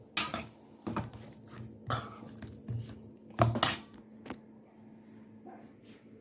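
Utensil clinking and knocking against a bowl, several sharp strikes about a second apart, while chicken is mixed into its salt and garlic-powder marinade.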